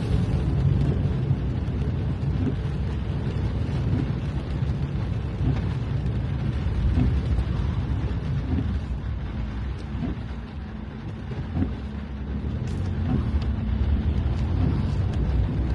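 Steady low rumble of road traffic passing, with wind on the microphone.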